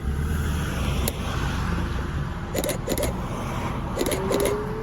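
Ferrari F12's V12 engine running with a low rumble as the car leaves, with two pairs of short sharp clicks in the second half and a rising engine note near the end.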